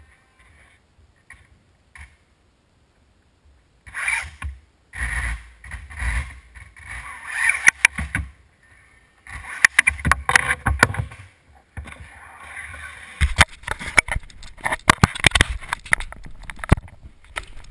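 Losi Mini 8ight electric RC buggy driving indoors in stop-and-go bursts, its tyres scrabbling on a hard floor and its chassis clattering, with many sharp knocks from bumps and impacts. It is faint for the first few seconds, then runs almost without a break from about halfway.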